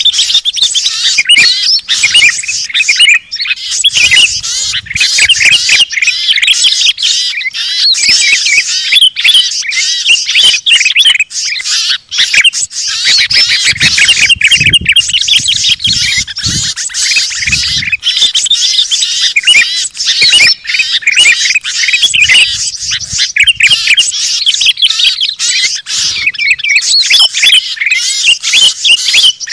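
Loud, dense chatter of many small songbirds calling at once, rapid chirps and trills mixed with harsh squawks, without a break: a bird-lure (pikat) recording of agitated small birds.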